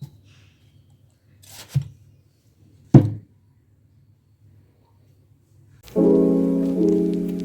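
Two dull thumps in a quiet room, the second, about three seconds in, the louder, then piano music with sustained chords comes in near the end.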